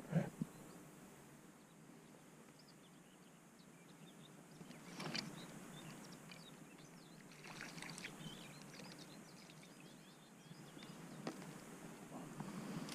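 Faint birds chirping, with a short knock at the very start and a few brief, soft rustling sounds about five, eight and twelve seconds in.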